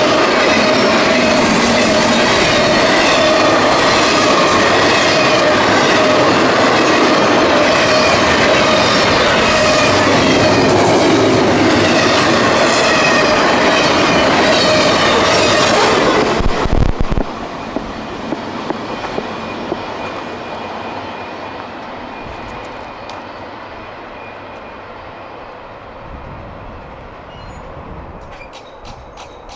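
CSX freight train cars passing close by: a loud, steady rush of wheels on rail with a thin steady squeal running through it. About seventeen seconds in, the end of the train goes by and the sound drops off suddenly, leaving a few clicks and a fading rumble.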